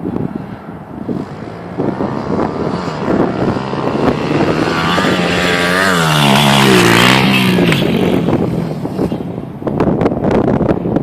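Small 70cc dirt bike engine revving as it approaches, its pitch climbing and then wavering up and down at its loudest around the middle, then fading away. Wind buffets the microphone at the start and near the end.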